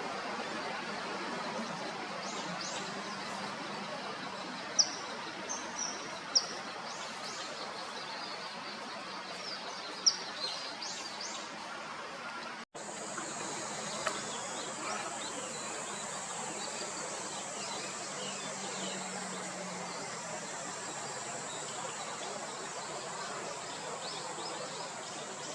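Outdoor ambience with several short, high bird chirps, a few of them sharp and loud. About halfway through there is an abrupt cut to a steady, high-pitched insect drone over the same background noise.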